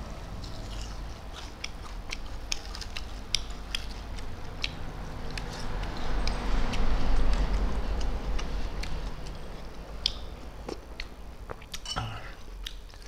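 Close-miked chewing of hand-fed rice and small fish, with many sharp wet clicks and lip smacks. A louder stretch of rough noise comes in the middle.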